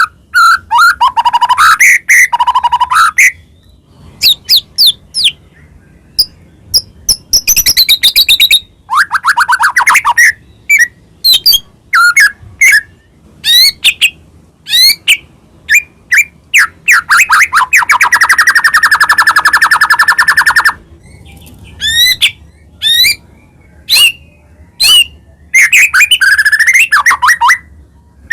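White-rumped shama singing a loud, varied song of quick whistled notes, trills and sweeping calls in short phrases, with a harsh buzzing rattle of about three seconds a little past halfway.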